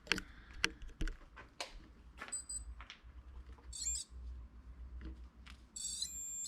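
Handling knocks and clicks as a REM pod is set down, with the device giving short high electronic chirps about two seconds in, a fast warbling beep around four seconds in, and a longer warbling high alarm tone near the end.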